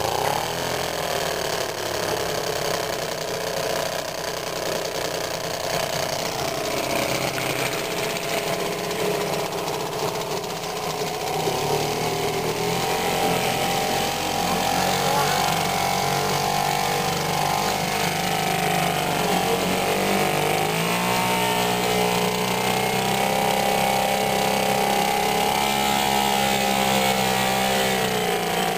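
1969 British Seagull Forty Featherweight single-cylinder two-stroke outboard motor running steadily. Its speed picks up partway through, rises again about two-thirds of the way in, and drops back near the end.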